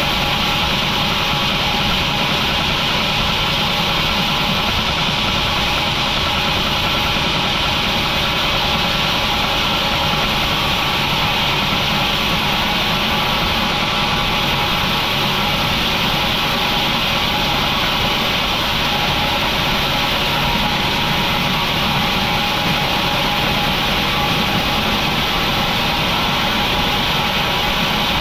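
Industrial sawmill machinery running steadily: a constant, unbroken mechanical drone with a rumble underneath and a hissing upper band, with no separate cuts or knocks standing out.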